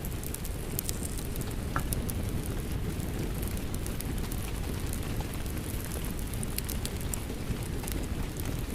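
Wood fire crackling with frequent sharp pops over a steady rumble of rain.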